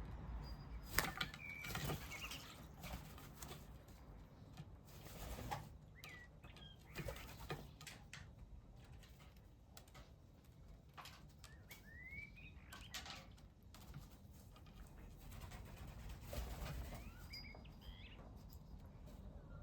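Birds at a bird bath and feeder: faint, scattered wing flutters, with a few short chirps.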